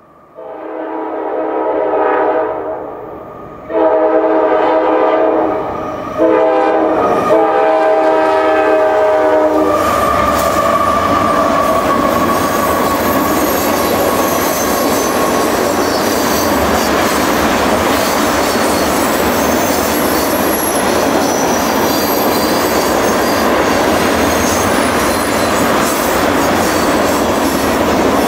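Freight locomotive's multi-chime air horn sounding the grade-crossing signal: two long blasts, a short one, then a long one. The train then rolls through the crossing with a steady, loud rumble of wheels on rail, clacking over the rail joints.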